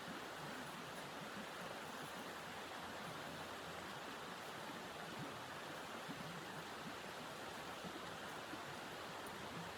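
Steady, even rushing noise of blizzard wind, with no single sound standing out.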